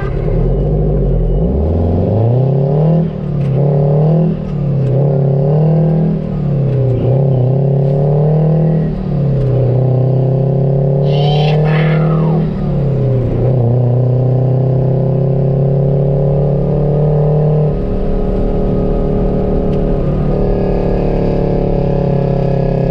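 Peterbilt 359 dump truck's Detroit Diesel engine pulling away and accelerating up through the gears. The engine note climbs and drops back about six times, then settles to a steady cruise. A brief high falling whistle comes about halfway through.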